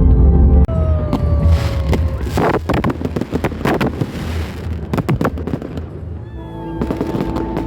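A run of sharp bangs and crackles, many in quick succession from about a second in until near the end, over background music.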